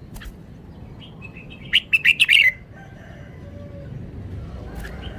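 Red-whiskered bulbul singing: a quick burst of about five loud, sharp notes a couple of seconds in, with fainter chirps before and after.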